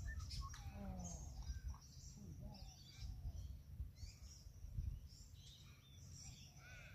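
Wild birds chirping and calling here and there, over a low, uneven rumble of wind on the microphone.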